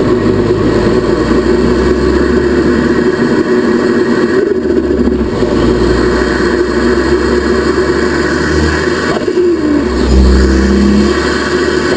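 Ford Focus ST Mk3's turbocharged engine pulling hard under acceleration. The throttle lifts briefly about four and a half seconds in and again about nine seconds in, the engine note dropping away, with a falling whistle after the second lift: the moments where turbo flutter is heard.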